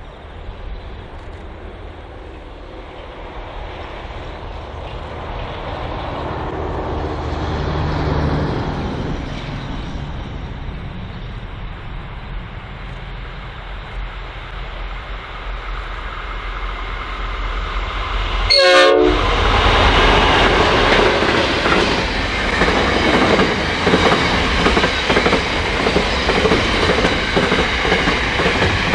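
Qube diesel-electric locomotive hauling an intermodal container freight train, its engine running steadily and growing louder as it approaches. From about nineteen seconds in there is a louder, steady clatter and rumble of container wagons rolling past close by.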